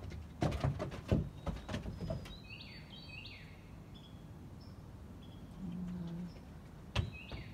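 A songbird chirping in two short bursts of quick, high, falling notes. Several knocks and thumps come in the first two seconds and are the loudest sounds.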